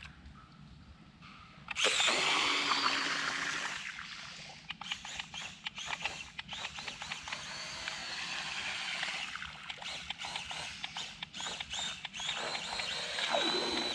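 Small electric motor of a DIY toy boat whining at high speed in surges. The pitch falls away after the first burst and the motor cuts off at the end.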